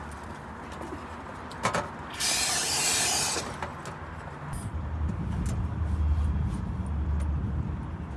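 A sharp click, then a loud hiss lasting about a second, followed by a low rumble like a vehicle going past.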